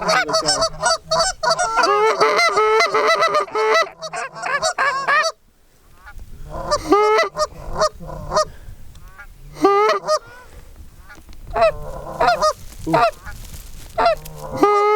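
Goose honking and clucking, many honks overlapping rapidly for about the first five seconds, then after a sudden break sparser single honks.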